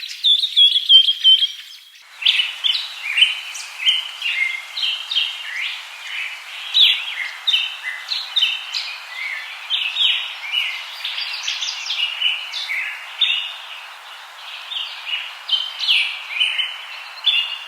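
A flock of budgerigars chirping and chattering, many short calls overlapping. From about two seconds in, a steady hiss lies under the calls.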